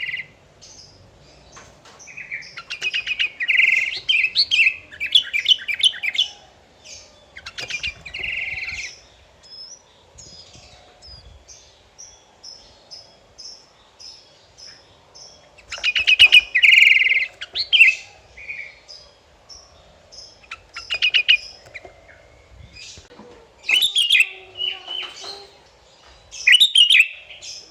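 Sooty-headed bulbul singing: loud bursts of chattering, rapid phrases every few seconds, with a run of short, high, evenly spaced notes in between.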